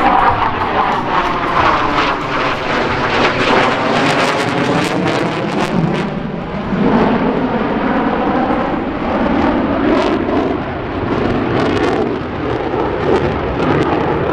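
F-15 Eagle's twin afterburning turbofan jet engines during a fast flyby: a loud, continuous jet rush with a sweeping, phasing tone as the aircraft passes and moves away.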